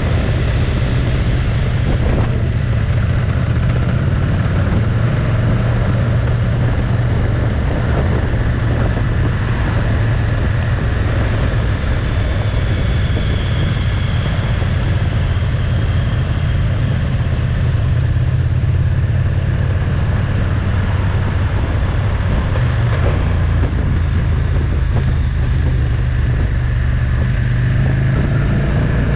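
Motorcycle engine running steadily on the move, its note rising and falling a little with throttle, under a constant wash of wind and road noise.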